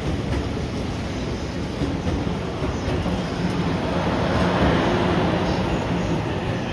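E001 'TRAIN SUITE Shiki-shima' electric train moving along the platform track: a steady rumble of wheels and running gear with a low hum, growing louder about four to five seconds in.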